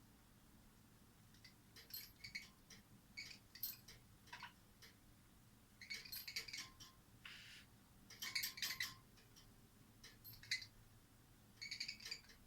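Small bell toy being knocked against metal cage bars by a pet: irregular clusters of jingling and tapping, about half a dozen bursts with short pauses between them.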